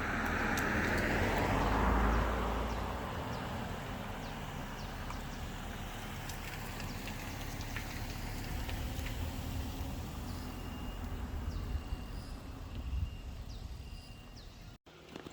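A vehicle passes close by in the first few seconds, its noise swelling and dropping in pitch. A steady low rumble follows, with faint high bird chirps near the end.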